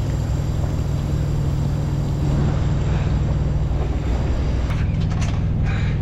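Semi-truck diesel engine running with a steady low hum, its pitch shifting about four seconds in. A few sharp clicks near the end.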